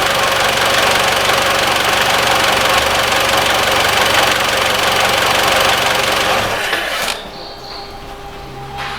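Mitsubishi ASX 1.8-litre petrol four-cylinder engine idling steadily, then switched off about seven seconds in.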